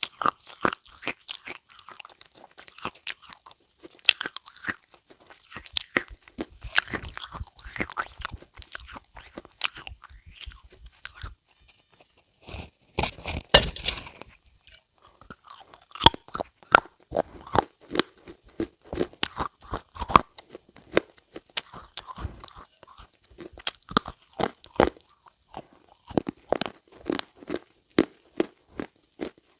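A long run of irregular crunches and crackles, sharp and quick, with a denser burst about halfway through.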